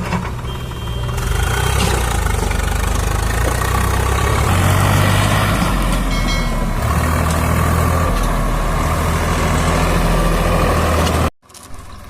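Tractor diesel engine running loud and steady, its sound building about a second or two in; it cuts off abruptly near the end.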